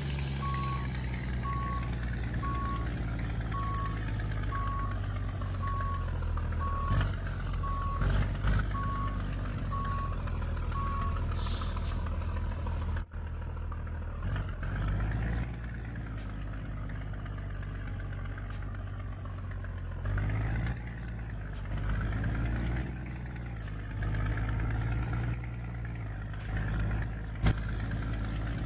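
Scania G124 truck's diesel engine running while its reversing alarm beeps at an even pace, about one and a half beeps a second. The beeping stops a little before halfway, followed by a brief hiss. The engine then runs on with a few short rises in revs.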